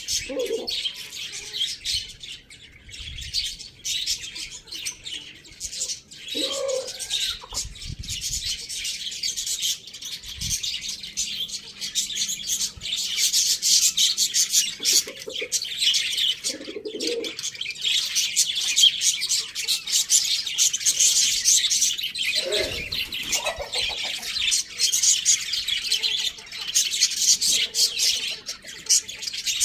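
A crowd of small birds chirping continuously in a dense, high chatter, with a few short lower calls now and then.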